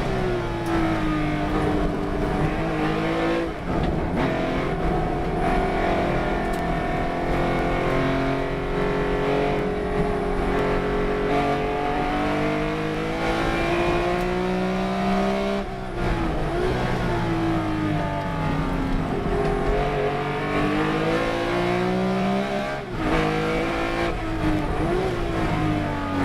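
Race car engine running hard through a lap, its note climbing under acceleration and falling away, with a brief drop in the sound three times as gears are changed.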